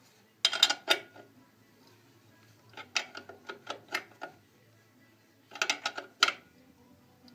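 Sharp metallic clicks and clatter of mechanical parts being handled, in three short bursts with pauses between them.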